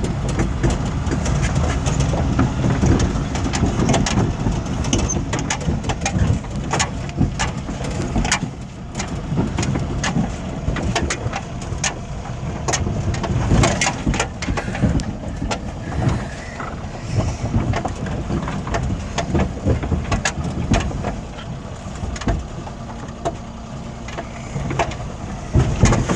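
Mini truck driving downhill over rough ground: a steady low rumble with frequent sharp knocks and rattles as the truck bounces.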